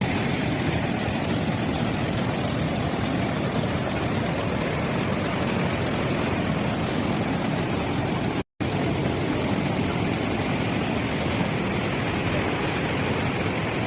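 Steady roar of rushing floodwater after a cloudburst, with one momentary dropout about eight seconds in.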